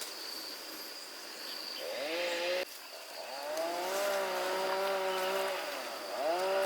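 Small petrol engine revving, its pitch rising and holding, then dipping and climbing again. It is cut off abruptly partway through, with a steady high insect drone behind it.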